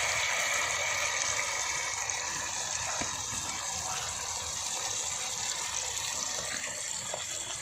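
Marinated quail pieces sizzling in hot oil, a steady hiss that slowly fades.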